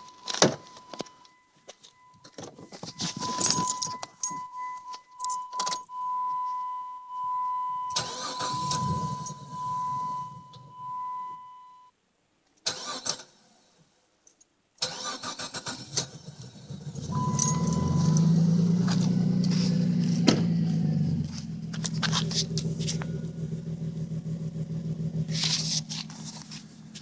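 Dodge Intrepid being started: keys rattle and clicks over a steady high electronic warning tone, then after a pause the engine cranks, catches and settles into a steady idle with no timing chain rattle, the chain having just been repaired.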